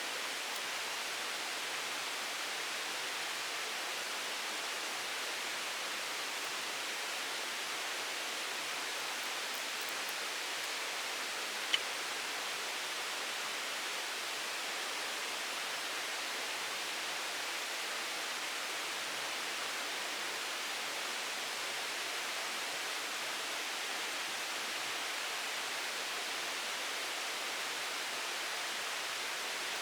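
A steady, even hiss of water, unchanging throughout, with a single short tick near the middle.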